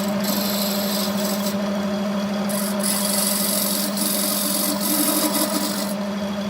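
Wood lathe running with a steady hum while a tool or abrasive works the spinning wood, giving a rasping hiss that comes and goes in stretches of a second or two.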